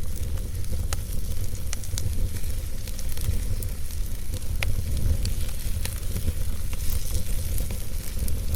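Wood logs burning in a fireplace, crackling and popping irregularly over a steady low rumble and hiss.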